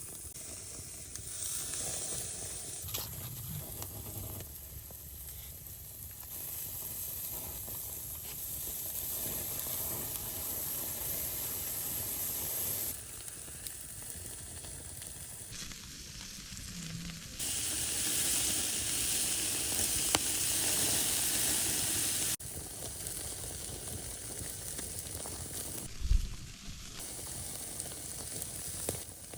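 Food frying and sizzling in a pan over an open fire, a steady hiss that jumps in level and character several times as the shots change. One short knock sounds near the end.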